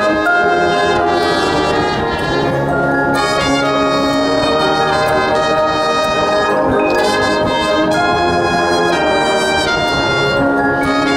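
High school marching band's brass section playing a slow passage of long held chords, trumpets and trombones over low brass, changing chord every second or two without a break.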